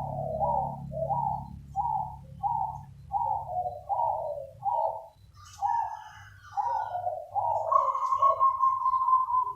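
Zebra dove (perkutut) singing: a rapid series of short cooing notes, about two a second, ending in one long held coo near the end.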